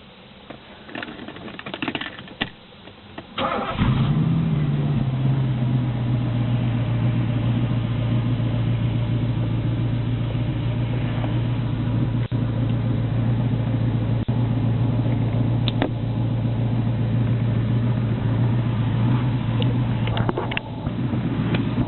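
Mercedes-Benz 500 SEC W126's 5.0-litre V8 starting: a few clicks and knocks, a brief crank, then the engine catches about four seconds in, flares briefly and settles into a steady idle. A few clicks near the end.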